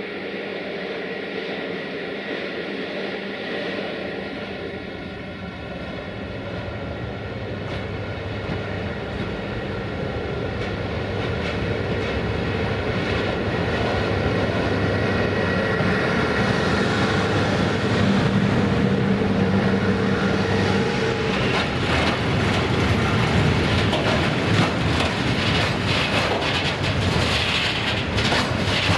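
A 060-EA (LE5100 kW) electric locomotive hauling a freight train of tank wagons approaches and passes. Its steady hum grows louder, and from about three-quarters of the way in the wagon wheels clatter rhythmically over the rail joints as the train rolls by.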